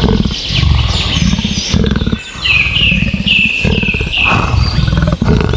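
Big cat roaring and growling: several long, low, rasping growls in a row with short breaks, a sound effect for a leopard. A run of high chirping notes sounds through the middle.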